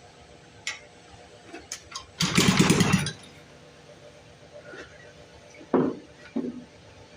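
1952 Briggs & Stratton Model 6 engine being pull-started. One hard rope pull about two seconds in turns it over against strong compression for under a second, and it doesn't catch. Scattered clicks and knocks of handling come before and after.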